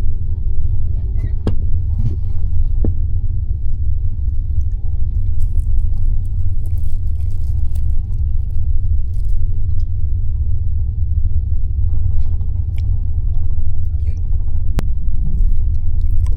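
Passenger sleeper train running: a steady low rumble, with a few faint clicks.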